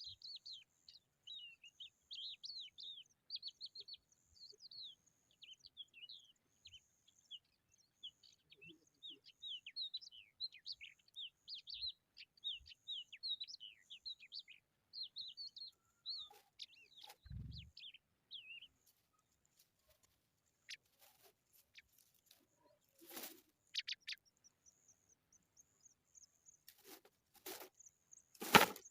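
Pipits chirping: a dense run of short, high-pitched chirps for most of the first two-thirds, which then stops. Near the end come a few short, loud bursts of noise.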